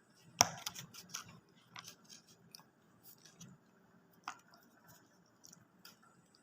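Close-up eating of fast food: a sharp crisp crunch about half a second in, then scattered smaller crunches and clicks.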